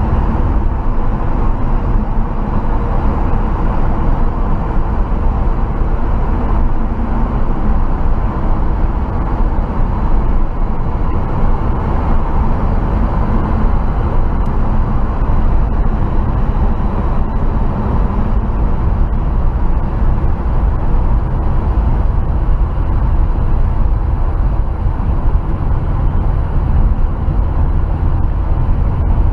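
1968 Chevrolet C20 pickup running steadily, a continuous low rumble of engine and road or wind noise. The engine is on a new intake with an Edelbrock carburetor.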